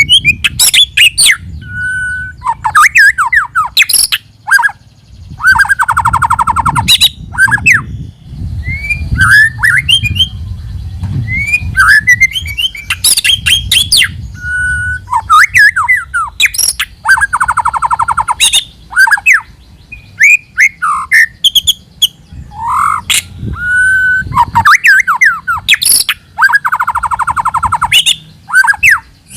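White-rumped shama singing loudly: a varied run of short phrases of whistled and sweeping notes, rapid buzzy trills and sharp clicks, one after another with short gaps, over a low background rumble.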